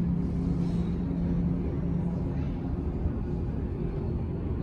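Steady low engine rumble with a constant low hum.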